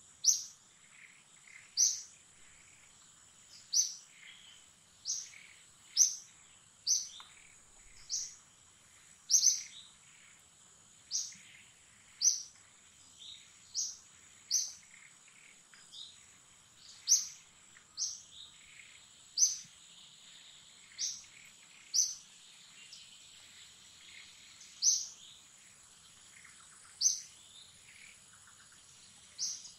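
A forest bird repeating a short, sharp, high-pitched call that drops in pitch, about once every one to two seconds, over a steady high-pitched drone.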